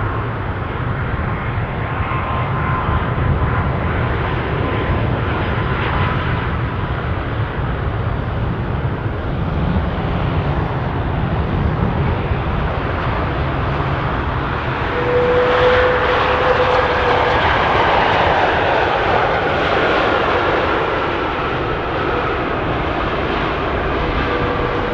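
Heavy jet airliner on landing approach, a steady engine rumble with a faint whine, swelling to its loudest about fifteen seconds in as it passes, then easing off.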